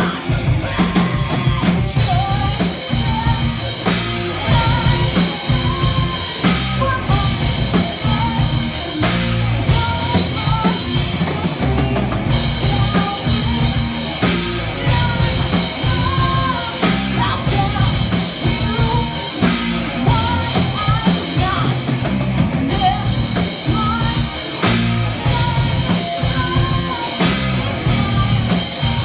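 Metal band playing live: a driving drum kit with heavy bass drum under amplified instruments, with a singer's voice over the top.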